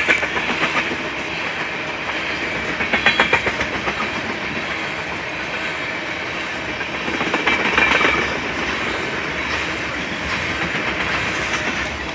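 BNSF freight train of tank cars rolling past, picking up speed, with steady wheel-on-rail noise. Clusters of clickety-clack come as wheel sets cross rail joints, loudest about 3 s and 8 s in.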